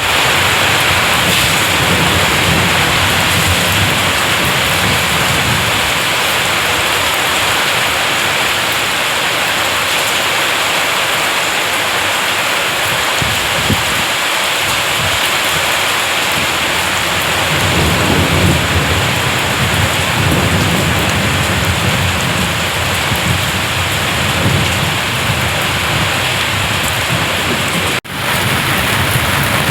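Heavy rain pouring down in a steady, loud hiss, with a low rumble swelling up about two-thirds of the way through. The sound drops out for a moment near the end.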